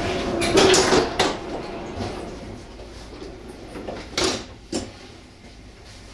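Train running noise dying away as the train slows almost to a stop, broken by a few sharp knocks and clunks, with a louder pair about four and a half seconds in.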